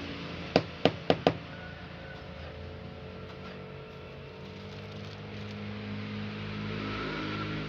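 Four sharp knocks in quick succession about half a second in, over a steady low hum.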